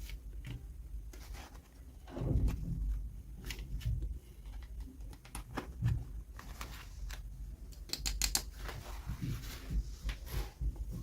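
Close-up handling of toy packaging: irregular small clicks, taps and rustles of plastic and paper, with a quick run of sharper clicks about eight seconds in.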